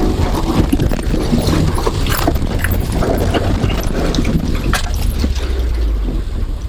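Inside the cabin of a 2017 Subaru WRX accelerating hard through standing water in pouring rain: a steady low engine drone under heavy rain and spray hammering the body, with many sharp taps.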